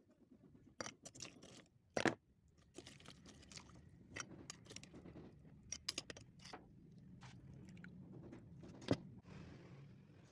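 Close-miked chewing and mouth sounds, a scatter of small wet clicks and crunches, with two sharper clicks about two seconds in and near the end.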